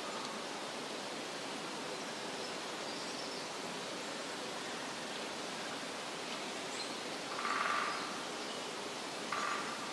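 Forest ambience: a steady, even rushing hiss with faint high bird chirps. Two short, louder calls come about seven and a half and nine and a half seconds in.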